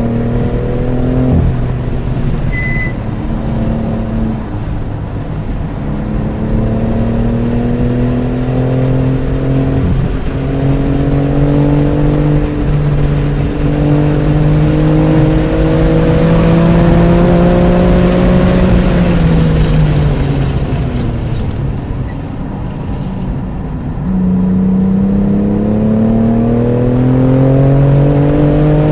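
BMW F80 M3 Competition's twin-turbo inline-six under hard acceleration on track: the revs drop at an upshift about a second in, climb for a long stretch, fall under braking about two-thirds of the way through, then climb again near the end. A short high beep sounds a few seconds in.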